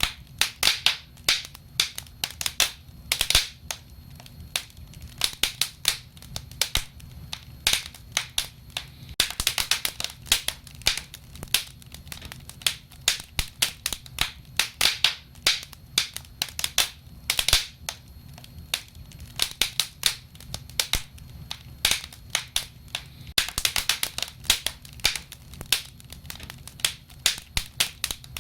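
Wood fire crackling and popping: irregular sharp snaps, several a second and sometimes in quick clusters, over a low steady rumble of the flames.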